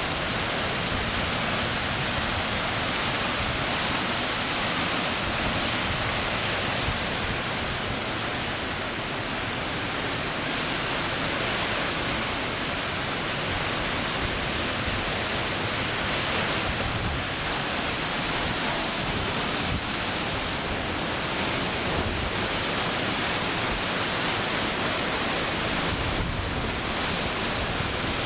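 Hurricane wind and rain: a steady, unbroken rush of noise, with gusts buffeting the microphone in an uneven low rumble.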